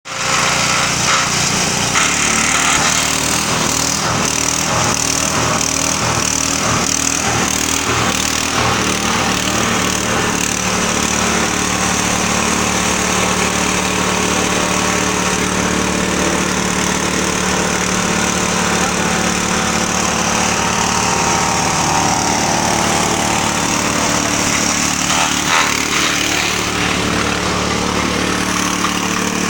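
Motorised grass chopper (chaff cutter) running steadily, driven by a small engine. A rhythmic rattle sounds over the hum for the first several seconds.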